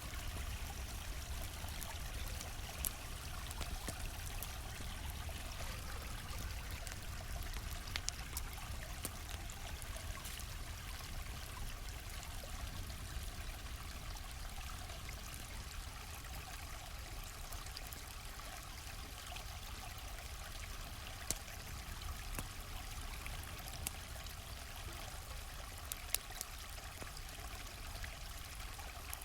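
Stream flowing steadily with an even rush of water, and a campfire giving a few sharp crackling pops now and then, a couple of them close together near the end.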